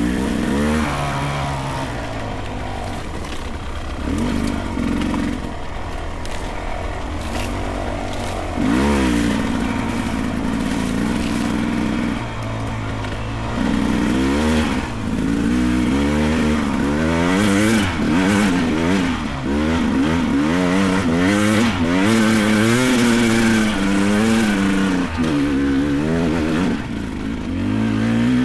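Beta 300 Race two-stroke dirt bike engine revving up and down under the rider's throttle as it climbs a rough trail. The revs rise and fall unevenly at first; from about halfway on they come as quick, repeated throttle blips.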